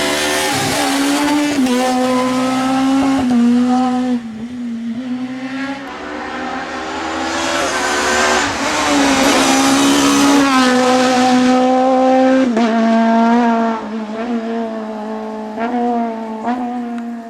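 Suzuki Swift S1600 rally car's 1.6-litre four-cylinder twin-cam engine running hard at high revs. The pitch holds high with several brief dips and quick recoveries, and the engine goes quieter for a moment about four seconds in and again near the end.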